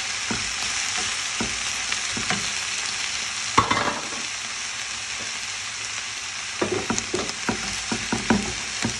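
Vegetables and black beans sizzling in hot oil in a pan as they are stirred, with short knocks and scrapes now and then, a sharper one about a third of the way in and a run of them near the end.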